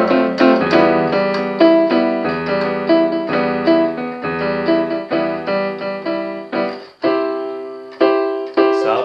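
Keyboard playing chords with a piano sound, a new chord every half second or so. It stops briefly about seven seconds in, then starts again.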